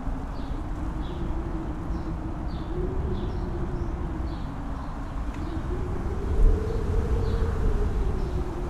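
Wind howling over a mountain top: a steady moaning tone that slowly rises in pitch over a heavy low rumble of gusts buffeting the microphone. Faint short high chirps recur about once a second.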